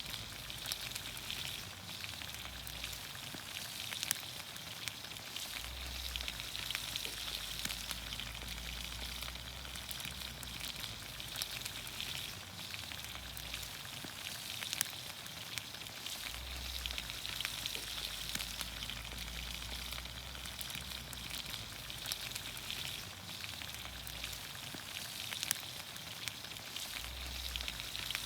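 Vegetables cooking in olive oil over a campfire, sizzling with a steady hiss and frequent small pops and crackles.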